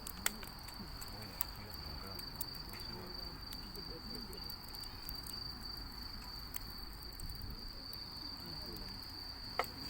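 Insects trilling steadily on one high note, with a few sharp crackles from burning wood, the loudest just after the start and near the end.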